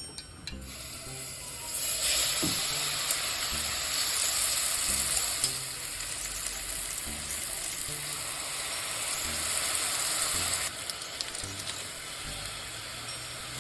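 Food sizzling in a hot pan, loud from about two seconds in, then dropping to a quieter sizzle about eleven seconds in.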